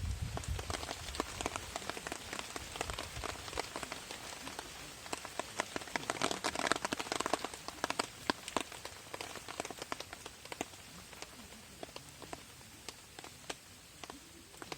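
Raindrops pattering on a camping tarp in irregular sharp taps, densest around the middle and thinning out toward the end.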